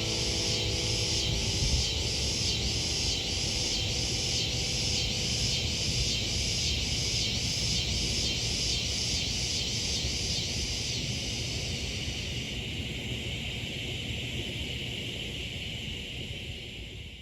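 Cicadas buzzing in the trees: a high pulsing chorus at about two pulses a second over a steady buzz. The pulsing stops about twelve seconds in, the steady buzz carries on, and it fades out at the very end.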